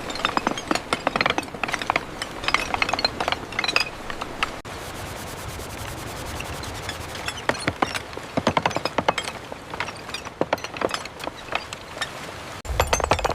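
Construction work sounds: quick runs of sharp taps and clicks from hand tools working on wood.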